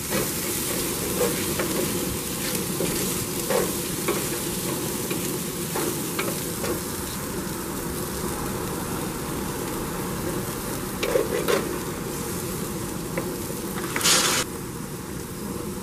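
Chicken pieces, onion and peppers sizzling in a paella pan while a wooden spoon stirs and scrapes through them, with scattered clicks of the spoon against the pan. A brief louder hiss comes near the end.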